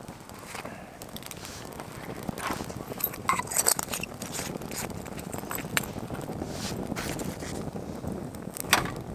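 Camp gear being handled: scattered light clinks and knocks over steady rustling, with a cluster of clinks a little after three seconds in and the sharpest knock near the end.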